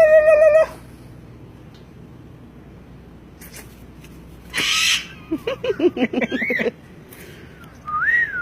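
Caged parrots calling: a held pitched call at the start, a harsh squawk about halfway through, then a quick run of wavering chattering notes and, near the end, a single whistle that rises and falls.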